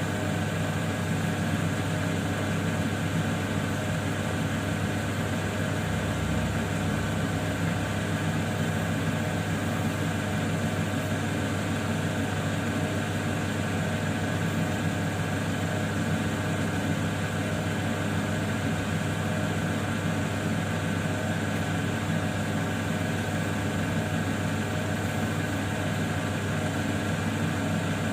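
Electric motor of a lapidary cutting wheel running at a steady hum while an opal is shaped on it.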